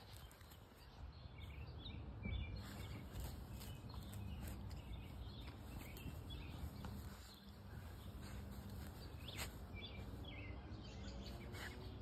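Faint outdoor ambience: small birds chirping in short calls every second or so, over a low, steady background noise.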